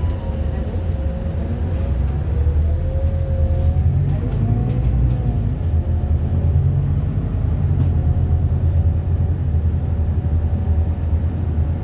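Bus engine and road noise as the bus drives: a steady low rumble with a faint whine that wavers slowly in pitch.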